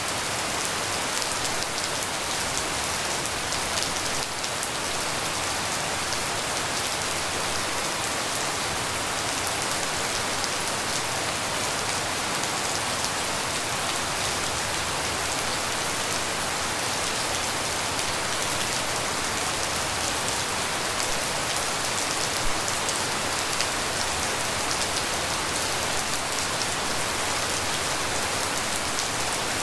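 Steady tropical rain falling and pattering on surfaces, a dense even hiss of many drops without thunder.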